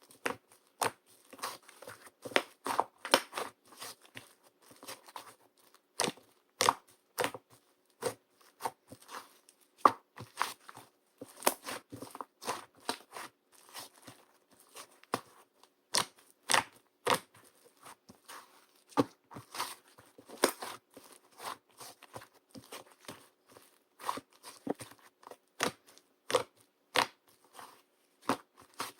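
Slime being worked by hand: irregular crunchy clicks and crackling pops, a few each second.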